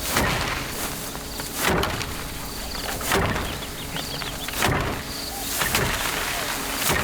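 Rice being threshed by hand: sheaves struck against a wooden threshing tub in regular thwacks, about one every second and a half.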